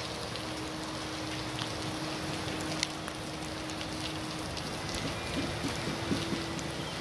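Steady rain falling on a wet street and standing floodwater: an even hiss with scattered ticks of individual drops.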